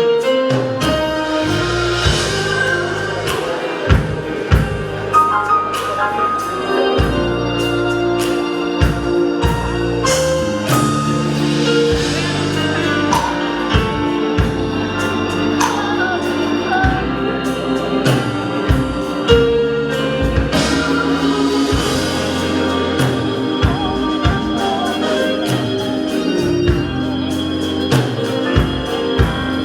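Instrumental music led by an organ, with held chords over a bass line and regular percussion hits.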